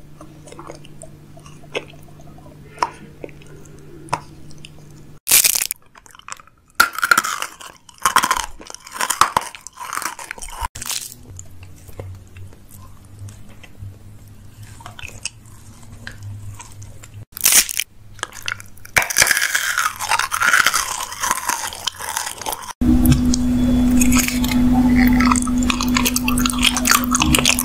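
Person biting and chewing chocolate and candy, with irregular sharp crunches and chewing noises in several short clips that cut abruptly from one to the next. A steady low hum runs under parts of it.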